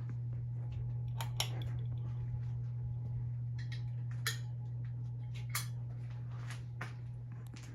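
CEI-made Hampton Bay Carousel ceiling fan running with a steady low motor hum, with a few scattered light clicks and ticks at irregular moments.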